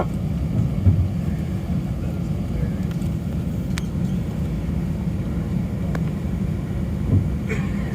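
Steady low rumble in the cabin of an Airbus A319 taxiing after landing: engines at idle with the cabin air running. One faint click almost four seconds in.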